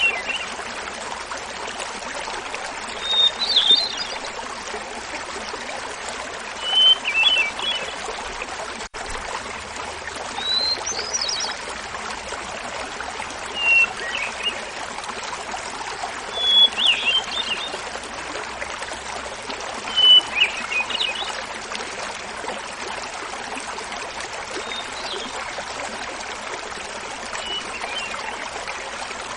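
Hermit thrush singing over the steady rush of a small waterfall: a phrase every three to four seconds, each a held opening note followed by a quick fluty flourish, shifting in pitch from phrase to phrase. The last two phrases are fainter.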